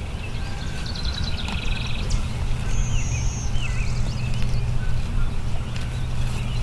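Small woodland birds chirping, trilling and whistling, several short calls overlapping, over a steady low rumble.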